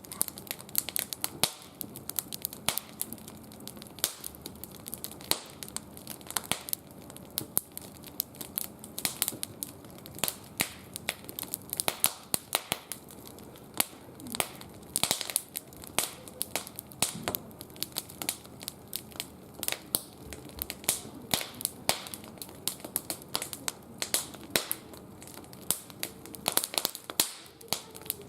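Wood fire crackling, with many sharp, irregular pops and snaps, some louder than others.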